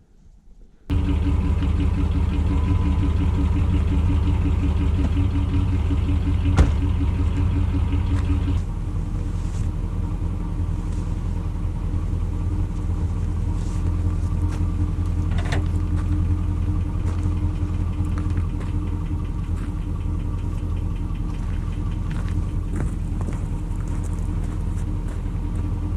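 Motor vehicle engine running steadily, as if driving, starting abruptly about a second in; about eight seconds in the drone drops to a slightly lower, steadier pitch.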